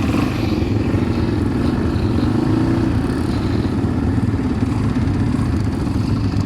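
ATV engine running steadily while riding, with a constant low engine note.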